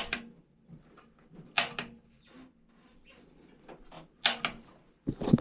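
A few separate sharp knocks and clacks a second or two apart, hard parts being handled and set in place, with a duller thud near the end.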